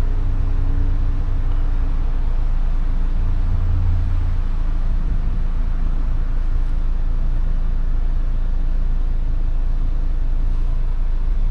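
Steady low rumble of a vehicle, running evenly throughout.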